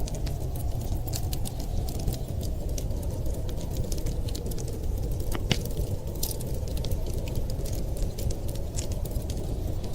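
Wood fire crackling, with scattered sharp pops (one stronger pop about five and a half seconds in), over a steady low rush of noise.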